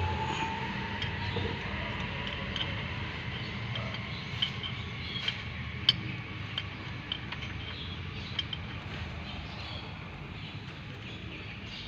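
Scattered light metallic clicks and clinks of tools and parts being handled during a timing chain job on a three-wheeler engine, over a steady low hum.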